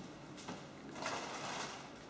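Handling noise on a work table: a light tap about half a second in, then a brief rustling scrape of under a second.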